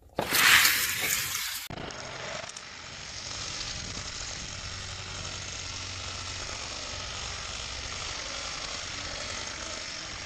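Die-cast toy trucks launched down a plastic gravity drag track: a loud rush of wheels on the track for about a second and a half, then a steady hiss that runs on at a lower level.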